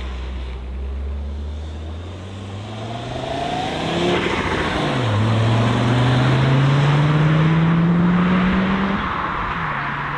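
A classic car's engine accelerating hard past the track edge. Its pitch climbs, falls at an upshift about five seconds in, climbs again to its loudest, then falls at another shift near the end.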